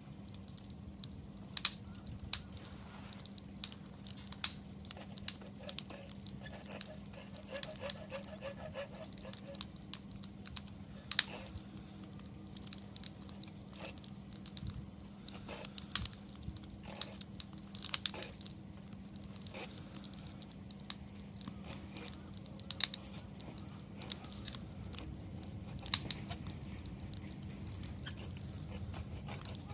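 Wood campfire burning, the wood crackling and popping irregularly with sharp snaps of varying loudness, a few much louder pops scattered through, over a faint steady low hum.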